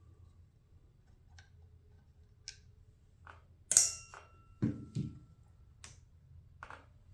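Tools and metal parts being handled while working on a lawnmower: scattered light clicks, then a sharp metal clank about halfway through that rings on for a couple of seconds, followed by two dull knocks.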